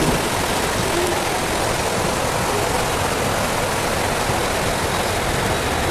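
Steady rushing noise of an Indian Railways express train rolling through a station in rain, heard at an open coach door: wheels on rail and rain hiss together, with no change in level.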